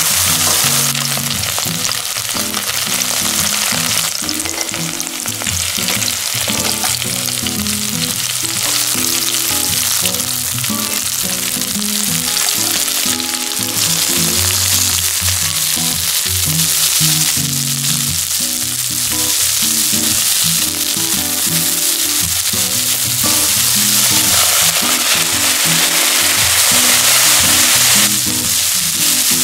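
Minced pork and shrimp heads sizzling as they are stir-fried in olive oil in a pan to make shrimp oil, then with sliced onion and green onion frying alongside. The sizzle is a steady, dense hiss, with background music underneath.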